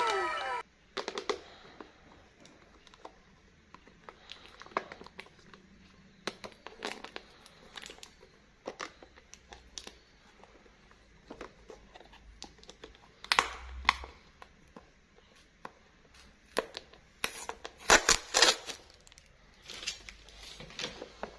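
Plastic packaging being opened by hand: scattered crinkles, small clicks and tearing, with louder bursts of crinkling about halfway through and again a few seconds later.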